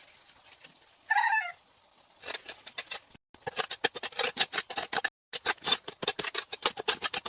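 A short animal call about a second in, then a fast, uneven run of clicks and knocks from about two seconds on.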